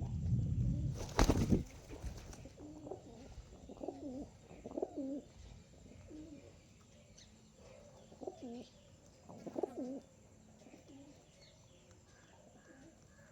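Pigeons cooing: a series of low, bending coos, clustered in the middle of the stretch and fading toward the end. Near the start there is a low rumble and one sharp, loud knock, the loudest thing heard.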